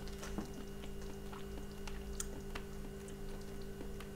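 A person chewing a spoonful of butter chicken with the mouth closed, with faint scattered wet clicks over a steady low hum.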